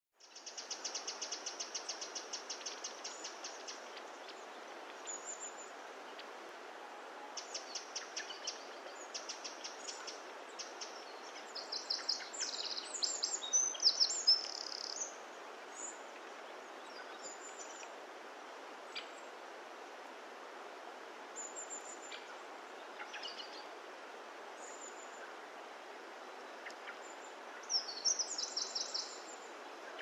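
Wild birds calling: a fast high trill at the start, then scattered chirps and trills in bursts, loudest in the middle and again near the end, over a steady hiss of background noise.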